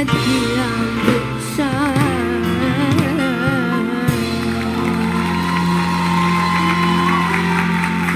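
A man sings an Arabic song with wide vibrato over instrumental accompaniment. From about halfway the music settles into one long held closing note.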